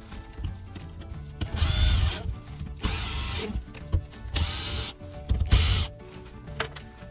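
Power drill running in four short bursts, each a second or less.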